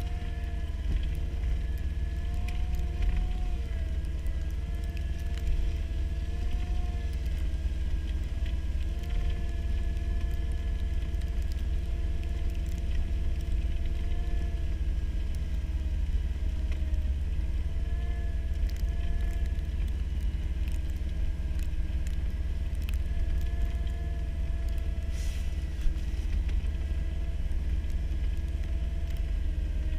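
Cat skid loader's diesel engine running steadily under load with a deep low rumble, its pitch wavering slightly; the owner says it has a bad injector and is not making full power. Near the end a single sharp knock stands out.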